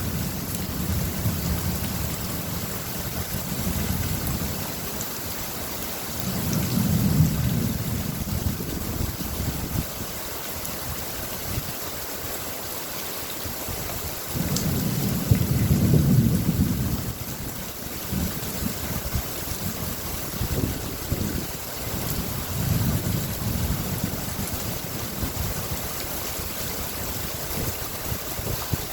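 Steady rain falling, with low rolls of thunder swelling and fading several times; the loudest rumbles come about a quarter of the way in and again around the middle.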